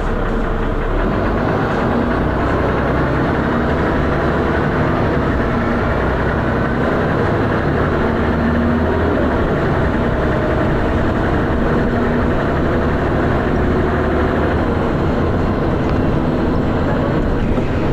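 Dennis Arrow double-decker bus's diesel engine running steadily under load, heard from on board the bus, with a low rumble and an engine note that shifts a little in pitch.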